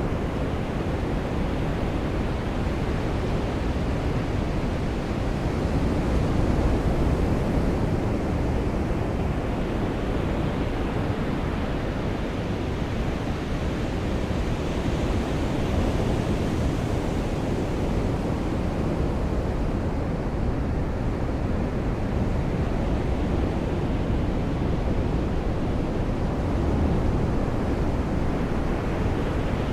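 Rain falling with surf washing on a beach: a steady rushing noise that swells gently a few times.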